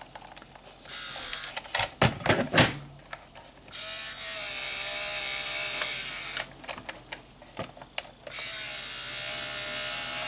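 Small electric motors and gearing of a 1/14 scale RC log loader whining as its functions are worked, such as the grapple rotating, in three stretches of steady whine. A few sharp clicks or knocks come about two seconds in.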